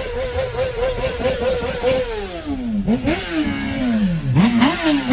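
A vehicle engine being revved in place: held at high revs with a fast wobble in pitch for about two seconds, then let fall, with two sharp blips of the throttle and a final rise near the end.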